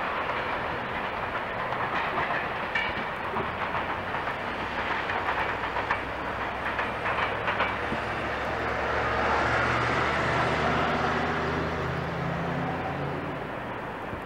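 A diesel-hauled freight train rolling past, its cars' wheels clicking over rail joints against a steady low engine drone. The sound swells a little past the middle.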